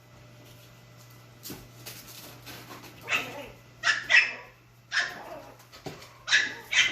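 Chihuahua dogs yapping during rough play: a quick string of short, sharp yips and barks that starts about three seconds in. A steady low hum runs underneath.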